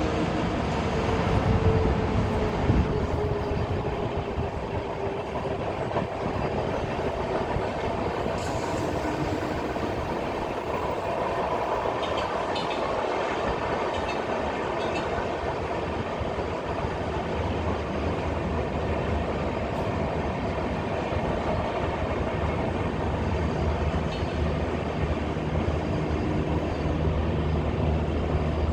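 A train rolling past a crossing, the cars' wheels giving a steady rumble and clatter on the rails. A faint tone slides slowly lower over the first few seconds, and a low steady hum joins in from about seventeen seconds in.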